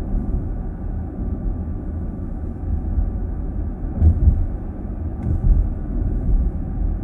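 Road and tyre rumble of a car driving, heard from inside the cabin, with two louder low thumps about four and five and a half seconds in.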